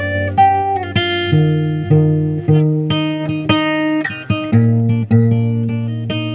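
Acoustic guitar music: plucked chords ringing over a low bass note that changes every second or so.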